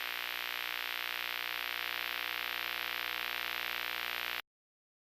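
A steady hiss of static-like noise with faint steady tones beneath it, cutting off suddenly about four seconds in, then dead silence.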